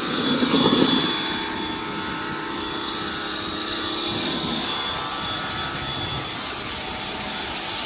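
Pressure washer running steadily, with the hiss of its spray and a thin high whine, a little louder for the first second.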